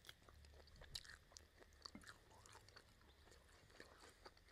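Close-miked chewing of roasted pork rib meat: wet mouth smacks and small clicks, the loudest about a second in.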